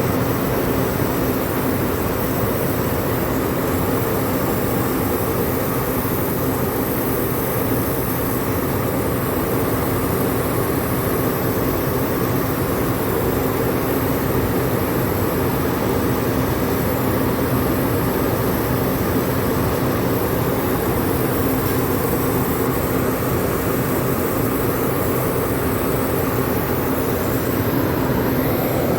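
Rooftop air-conditioning machinery running steadily: an even fan-like rush with a constant low hum, and no pauses or changes.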